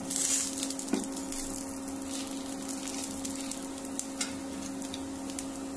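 Rava dosa frying on a hot griddle (tawa): a steady, faint sizzling hiss with a few small crackles as it crisps to red-brown. A steel spatula scrapes briefly at first.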